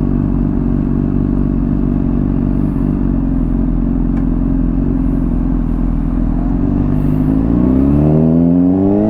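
Honda CBR600RR's inline-four engine through a slip-on exhaust, running at steady revs, then climbing in pitch as the throttle opens for the last second and a half.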